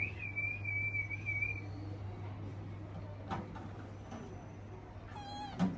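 Kittens mewing: a thin, high, wavering mew lasting about a second and a half at the start, then a short, shaky mew near the end, over a low steady hum.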